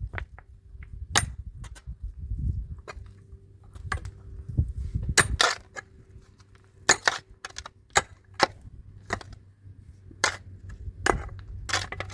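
A series of sharp, irregularly spaced clicks and knocks, about fifteen in all, over a low rumble.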